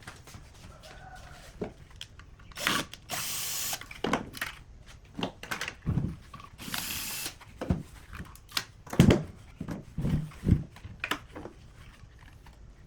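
Workshop tool sounds: scattered knocks and clicks, with two short hissing bursts about a second long.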